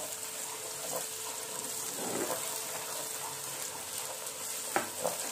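Ginger-garlic paste and chopped onions sizzling steadily in hot oil in a kadai while a wooden spatula stirs them. A few light knocks of the spatula against the pan, two of them near the end.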